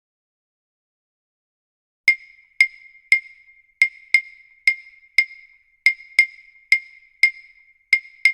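About two seconds of silence, then a run of sharp, pitched wood-block-like ticks, roughly two a second at slightly uneven spacing, each ringing briefly.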